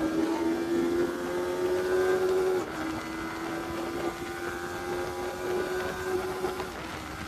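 Motorcycle engine running under load, its pitch climbing slowly and stepping down twice, about two and a half seconds in and again near the end, at gear changes, over a steady rush of wind.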